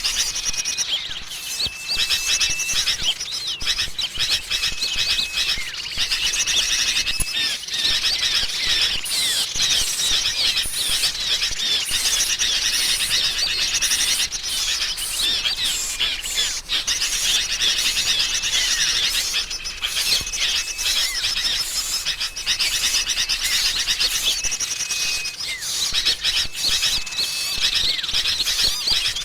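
Dense, continuous chorus of sooty-headed bulbuls chattering noisily, mixed with the rapid chirps and trills of small songbirds such as prinias. Short level whistles recur every second or two among the chatter. This is an agitated-flock bird-trapping lure call.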